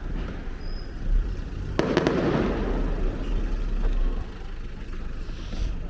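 A firework going off about two seconds in: a sharp bang followed by a rumbling, crackling tail that fades over a second or so, over a steady low background rumble.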